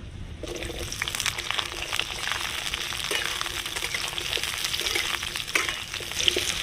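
Raw potato chunks hitting hot mustard oil in a metal kadai and sizzling with dense crackling as they start to fry. The sizzle starts suddenly about half a second in. A metal spatula stirs and knocks against the pan.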